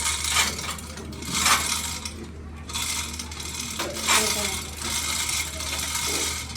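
Metal on metal: repeated bouts of scraping and clinking, about five of them, over a steady low machine hum.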